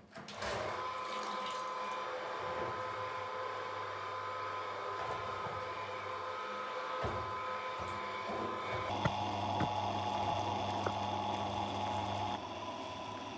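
Small electric pump running and moving water, a steady motor hum with a whine. Its tone shifts about nine seconds in, and the motor stops about twelve seconds in while a softer water sound carries on.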